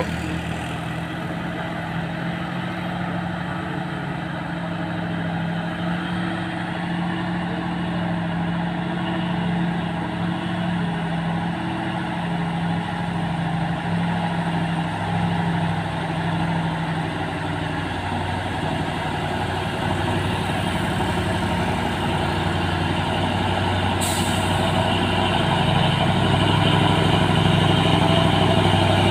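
Diesel engine of a Fuso truck pulling up a steep hill, a steady low drone that slowly grows louder. A brief hiss about five seconds before the end.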